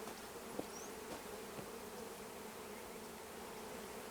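Honey bee colony humming steadily around an open hive during a frame inspection, with a few faint clicks about half a second and a second and a half in.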